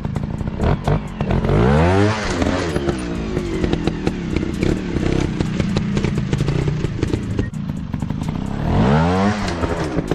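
Off-road motorcycle engine running and revving, its pitch rising and falling back twice, about two seconds in and again near the end, with clattering clicks throughout.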